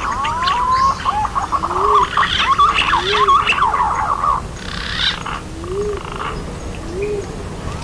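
A flock of green pigeons (punai) calling: many overlapping wavering whistles, densest in the middle, with low repeated cooing notes underneath.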